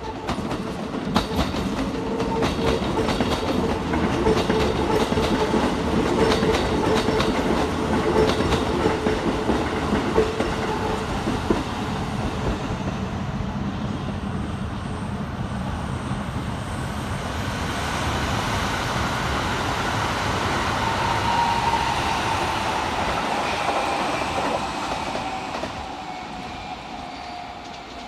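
Keikyu electric trains running through the depot tracks. For the first dozen seconds wheels click over rail joints and points. After that a train's whine slowly falls in pitch and fades near the end as the train runs off.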